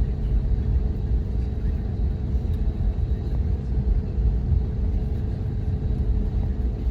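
Steady low rumble of a vehicle in motion, with a faint constant hum over it and no distinct events.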